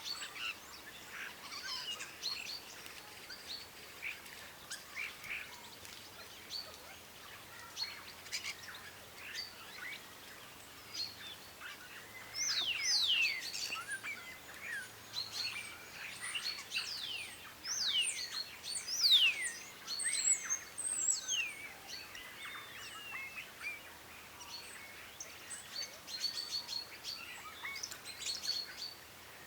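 Several birds chirping and calling, with a run of loud whistles that slide sharply downward in pitch in the middle.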